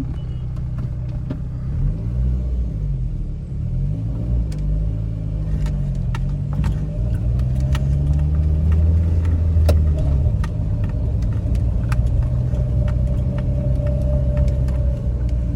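Volkswagen Saveiro G4 pickup being driven, its engine's pitch rising and falling with the revs as it speeds up and slows down.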